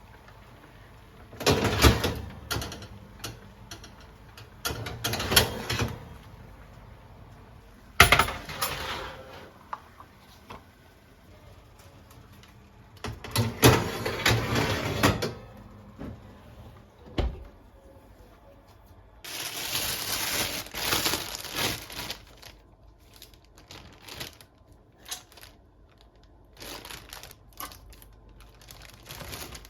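Kitchen handling noises in about six separate spells: clattering, knocking and rustling as things are moved and set down, with quiet between.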